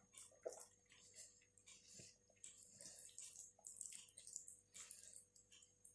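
Close-up wet chewing and lip-smacking of a person eating soft rice and curry: a faint, irregular run of small squelches and mouth clicks, several a second.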